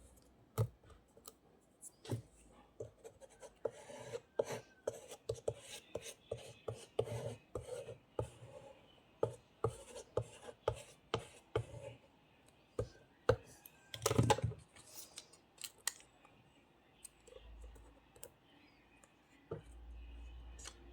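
Paper and craft supplies being handled for a junk journal page: irregular clicks, taps and rustling, loudest about 14 seconds in. A low hum comes in near the end.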